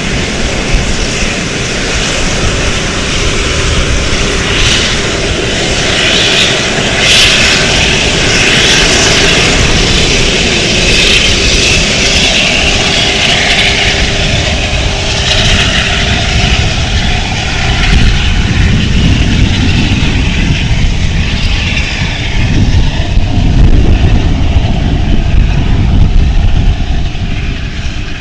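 Airplane engines running loudly and continuously, with a steady whine through the first half and a deep rumble building in the second half.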